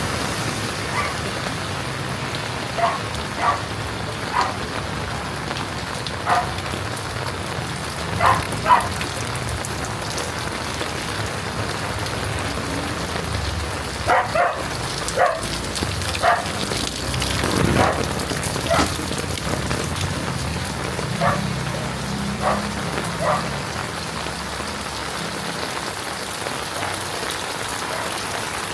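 Heavy rain falling steadily. Short, sharp pitched calls ring out over it about a dozen times, often in quick pairs, with a low rumble swelling around the middle.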